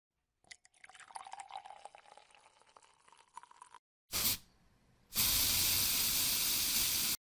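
Scattered drips and small clicks, then a short burst and a steady hiss of spray lasting about two seconds that cuts off suddenly.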